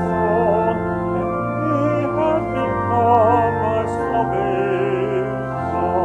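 Voices singing with vibrato over held organ chords, a hymn being sung with organ accompaniment.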